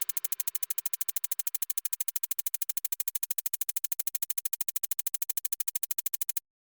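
Rapid, even electronic clicking, about a dozen clicks a second, as part of a synthesized music track; it cuts off suddenly near the end.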